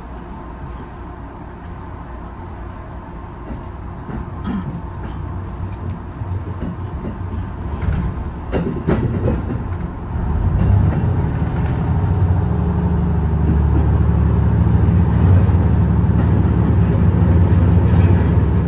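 Hybrid diesel railcar running on the rails, with a few clicks from the wheels early on. About ten seconds in, the low drone of its engine swells and holds louder.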